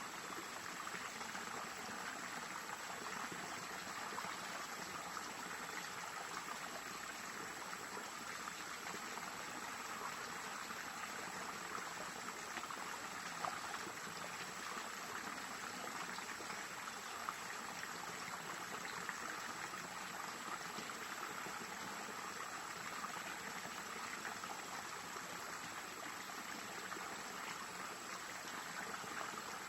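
Water of a stream flowing steadily, a continuous even rushing sound, with a couple of small ticks about halfway through.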